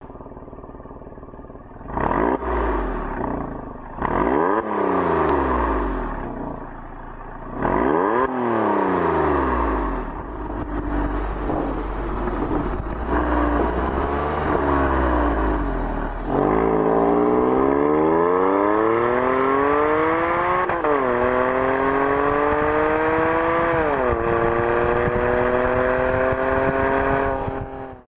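Porsche 997 Carrera S flat-six through a Fister aftermarket exhaust. It idles briefly, then gets several quick revs that rise and fall. It then accelerates hard with a rising pitch that drops sharply twice at upshifts.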